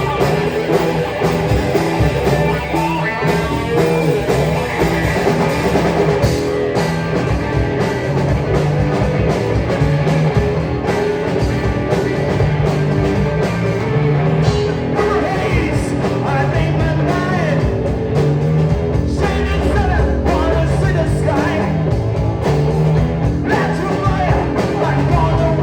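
Live rock band playing, with distorted electric guitar, bass, drums and a singing voice.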